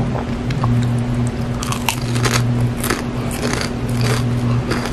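Close-up chewing of a piece of crispy fried food with the mouth closed: a run of sharp, crisp crunches, thickest from about a second and a half in, over a steady low hum.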